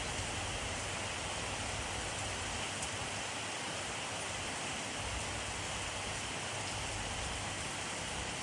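Steady rainfall: a dense, even hiss of rain, with a few faint drop ticks and a low rumble underneath.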